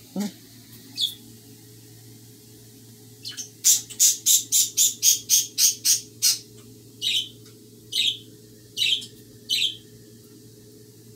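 Pet bird calling: a quick run of about ten sharp, loud calls at roughly four a second, then four separate calls that each fall in pitch.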